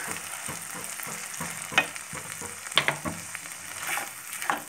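Onion-tomato masala frying in oil in a nonstick pan, a steady sizzle, while a spatula stirs a thick cashew, poppy seed and sesame paste through it. A few sharper scrapes of the spatula come in the second half.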